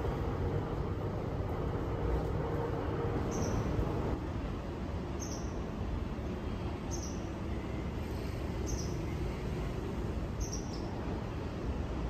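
A small bird's short, high, falling chirp repeats about every two seconds over a low city background rumble. A steady hum stops about four seconds in.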